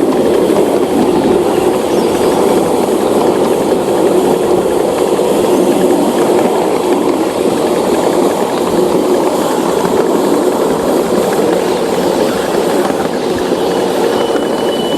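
Train running along the track with a steady rumble. A thin high whistle tone starts near the end.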